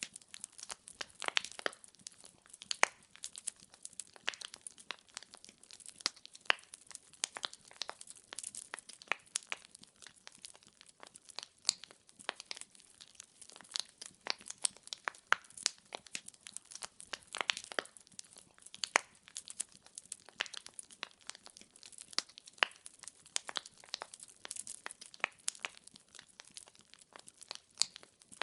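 Burning firewood crackling in a fireplace: irregular sharp pops and snaps, several a second, over a faint hiss of the flames.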